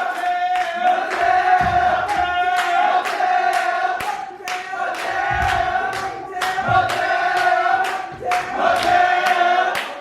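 A crowd chanting together over music, with a held sung note and sharp hits on a steady beat about twice a second.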